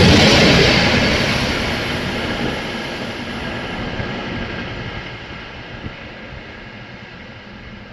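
Indian Railways train running along the track, its rumble and wheel noise fading steadily as it moves away.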